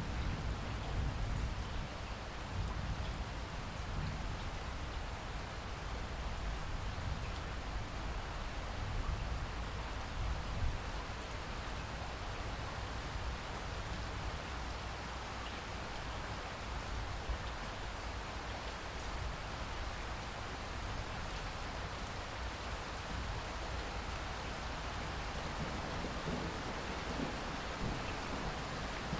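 Steady rain falling, a continuous patter of drops on surfaces, with a low rumble of thunder underneath for roughly the first ten seconds that then fades.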